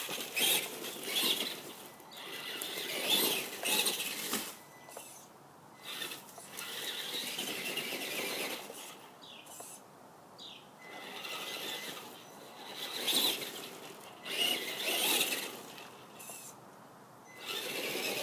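Electric motor and drivetrain of a Traxxas RC monster truck whining in repeated short bursts of throttle, about eight in all, as it is driven through mulch.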